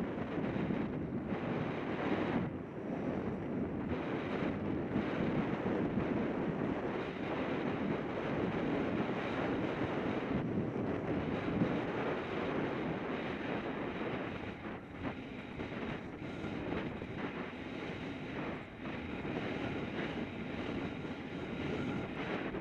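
Wind buffeting the microphone: a steady low rumbling noise that rises and falls in gusts.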